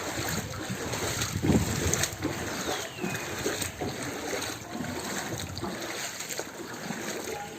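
Floodwater on a waterlogged street: a steady rushing wash of moving water with irregular splashes.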